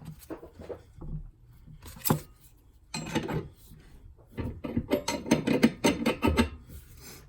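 Steel ball joint press parts being handled and set up on a steering knuckle: a sharp metallic knock about two seconds in, then bursts of clinking and scraping as the cup and adapter are lined up.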